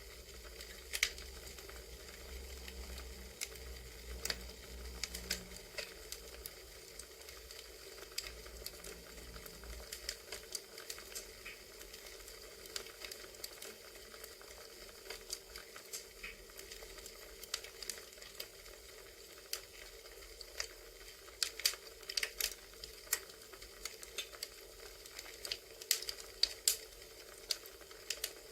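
Recorded campfire crackling: a steady soft hiss with irregular sharp pops, coming in quick clusters about two-thirds of the way through and again near the end.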